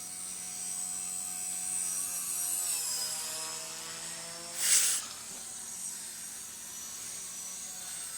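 Blade mCP X BL micro RC helicopter in flight, its brushless motors and rotors making a steady high whine that dips in pitch and comes back up about three seconds in. A short loud hiss cuts in about halfway through.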